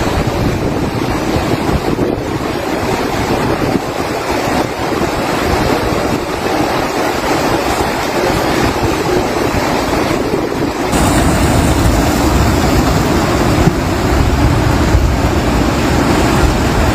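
Floodwater rushing loudly, with wind buffeting the microphone. About eleven seconds in the sound changes abruptly and becomes deeper and a little louder.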